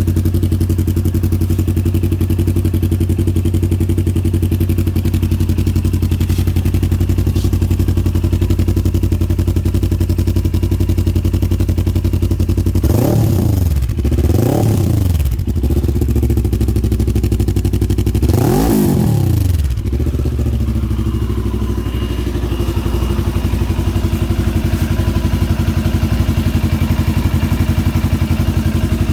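CFMOTO motorcycle engine idling steadily, with three quick throttle blips where the pitch rises and falls, two close together about halfway through and a third a few seconds later.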